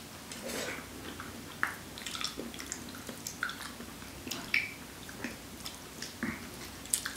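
Two people chewing soft durian flesh, with small wet mouth sounds and scattered light clicks.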